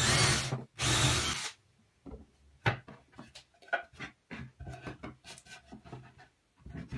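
Two loud bursts of a tool working wood, each about half a second long, then a run of light knocks and clicks as parts are handled.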